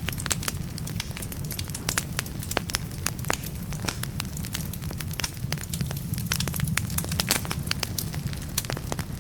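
Wood fire burning in a fireplace: frequent sharp crackles and pops from the burning logs over a steady low rumble of the flames.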